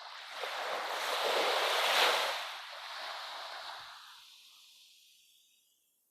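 A rushing noise swells to a peak about two seconds in, then fades away to silence.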